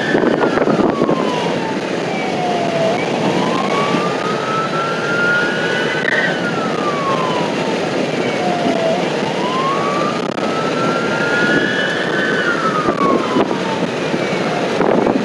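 Emergency vehicle siren on a slow wail, climbing and falling in pitch about every six seconds, over steady engine and road noise from a moving vehicle.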